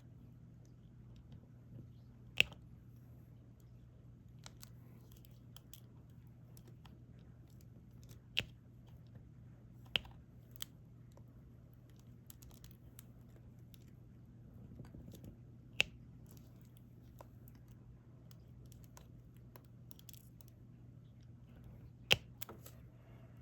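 Small plastic clicks and taps from diamond painting work: a drill pen picking up resin drills and pressing them onto the adhesive canvas. Mostly faint ticks, with about five sharper clicks spaced a few seconds apart.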